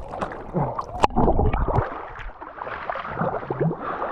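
River water gurgling and churning around a kayak held in a stern stall, with a sharp click about a second in.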